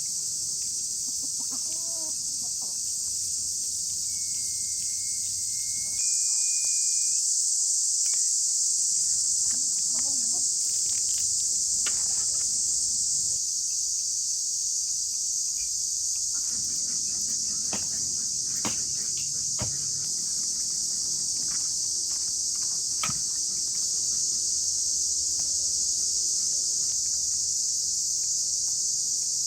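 Steady, high-pitched chorus of insects, crickets or cicadas, running without pause, with scattered clicks and knocks in its middle stretch.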